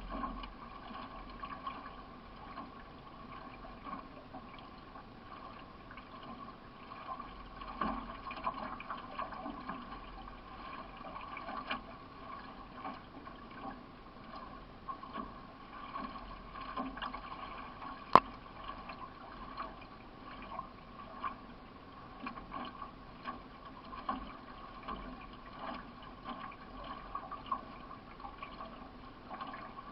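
Water splashing and sloshing as a paddle strokes a solo racing canoe along, with soft irregular surges of water over a steady hum. A single sharp click sounds about two-thirds of the way through.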